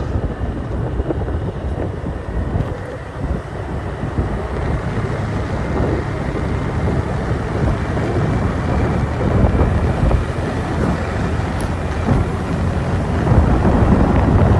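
Riding on a motorbike: the engine running and wind rushing over the microphone as a steady low rumble. It grows a little louder towards the end.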